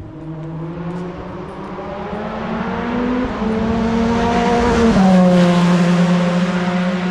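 Formula One car's engine on the nearby circuit, growing louder with its pitch climbing and then stepping down twice, loudest about five seconds in.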